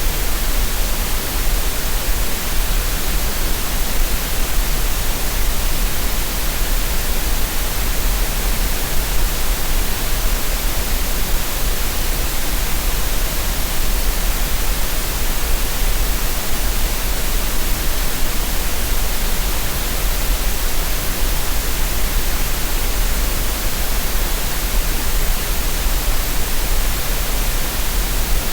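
Green noise, a synthetic masking noise: a steady, even hiss with no tones, beats or breaks.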